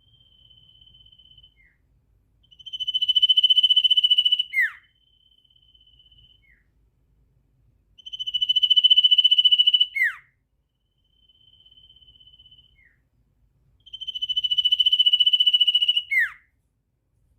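A songbird of the kind keepers call sirtu, repeating one song phrase three times, about every six seconds. Each phrase is a faint short trill at one high pitch, then a loud, fast trill of about two seconds that ends in a sharp downward-sliding note.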